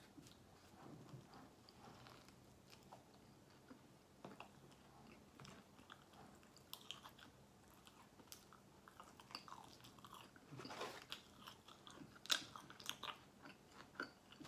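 Faint chewing and mouth sounds of a person eating a burger, with scattered small wet clicks and a sharper smack about twelve seconds in.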